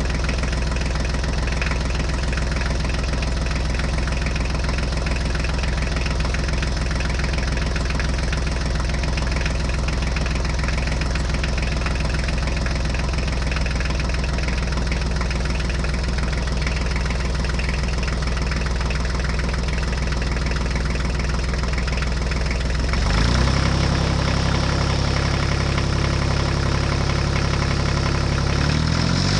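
Tractor engine running steadily at a low, even note; about 23 seconds in the note changes abruptly and gets a little louder.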